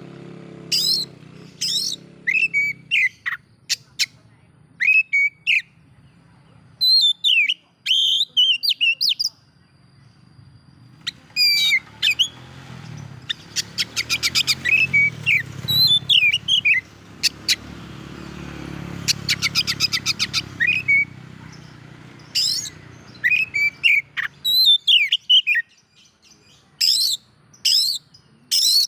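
Oriental magpie-robin (kacer) singing: a string of varied loud whistles and chirps, broken by two runs of rapid rattling notes, one about halfway through and one about two-thirds through. A low hum runs underneath and stops well before the end.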